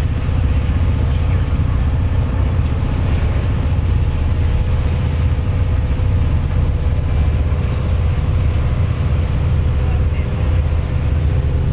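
An engine running steadily at an even speed, a low drone with no change in pitch or level.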